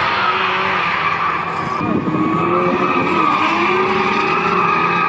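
Drift car sliding at high revs: the engine rises and falls in pitch under a steady, high-pitched tyre squeal.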